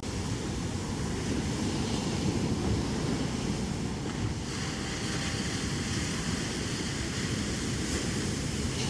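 Wind buffeting the microphone over the steady rush of surf breaking on the shore.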